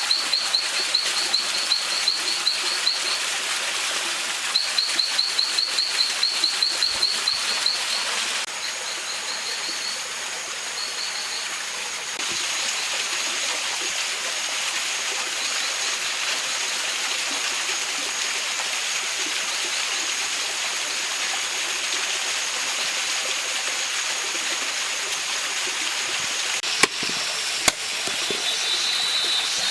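Mountain stream running, with a bird trilling in quick runs of repeated chirps during the first eight seconds. Then the water runs on under a thin, steady high tone, with two sharp clicks near the end.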